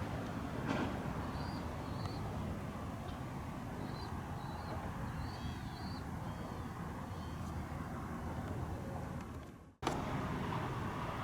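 Steady outdoor background rumble of traffic, with a small bird chirping in short calls several times. Near the end the sound cuts out abruptly for an instant, then a similar rumble resumes.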